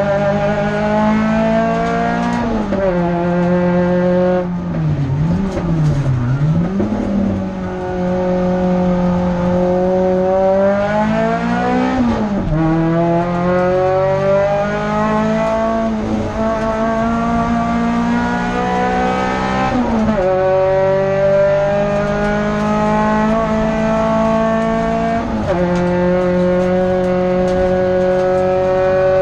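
Renault Clio F2000 race car's engine heard from inside the cabin, at full throttle, its pitch climbing through each gear and dropping sharply at every gear change. Around six seconds in, the pitch dips and rises twice in quick succession.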